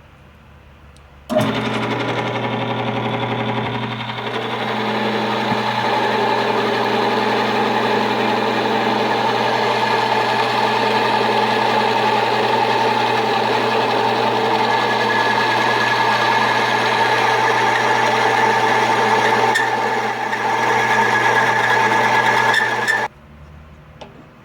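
Motor-driven friction wear-test rig running under load, metal grinding against metal: a steady motor hum with a harsh grinding friction noise over it, and a high tone growing stronger in the second half. It starts about a second in and cuts off suddenly near the end.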